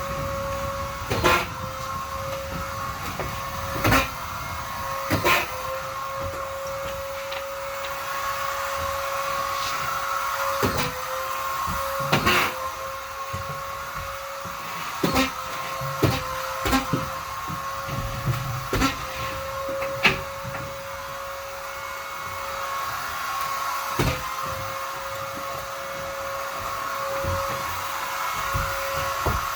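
A vacuum cleaner running with a steady whine, broken by a dozen or so sharp knocks and clatters at irregular intervals.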